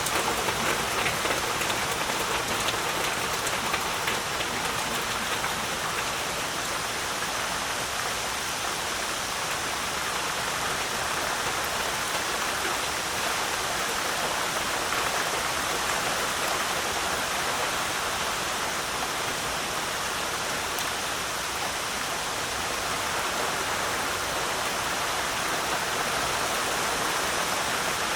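Heavy rain falling steadily, a dense even hiss of countless drops on surfaces.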